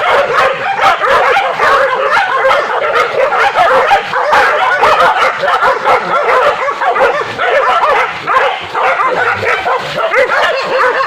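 A pack of hunting dogs barking and yelping together without a break, many overlapping high calls at once, as they chase or bay a wild boar.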